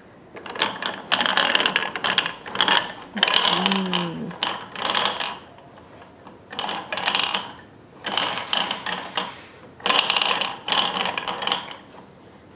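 Wooden toy mixer's crank on top being turned in spurts, its gears giving a rapid ratcheting clatter in about eight short bursts with brief pauses between.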